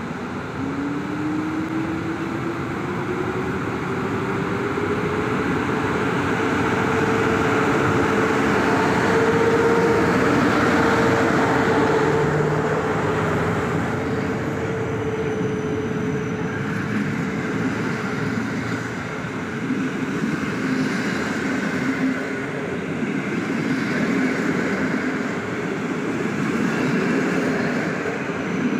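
Electric train pulling away. A motor whine rises in pitch over the first few seconds and then holds steady, over continuous running noise that swells and then eases slightly.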